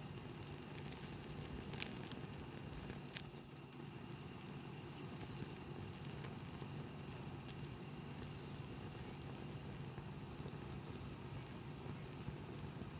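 Wood campfire burning with a low steady hiss, and two sharp pops about two and three seconds in.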